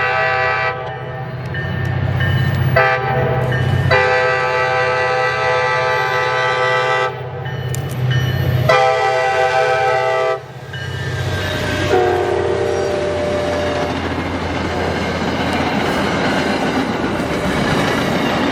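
A locomotive's multi-chime air horn sounding a series of blasts: one cutting off about a second in, a short toot, two long blasts and a last brief one. The train then passes close by, its rumble and wheel noise rising and holding steady.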